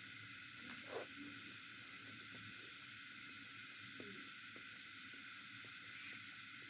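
Crickets chirping steadily, about four pulses a second, over a constant background hiss, with two sharp clicks about a second in and a few fainter clicks later.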